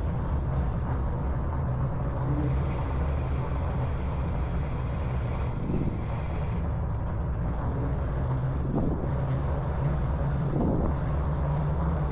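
Steady low rumble inside a concrete tunnel under an interstate highway as an e-bike rolls slowly through it, with a few faint brief swells.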